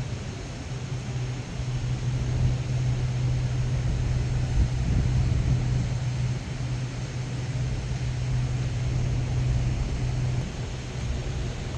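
Steady low machinery hum of a cruise ship heard from its deck, over a constant rushing noise, with wind rumbling irregularly on the microphone.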